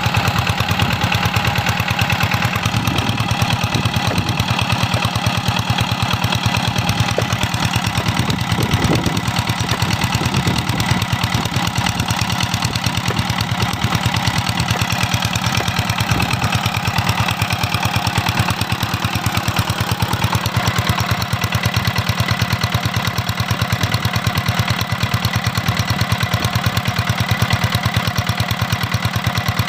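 Stationary diesel engine driving an irrigation water pump, running steadily with a rapid, even knock of its firing.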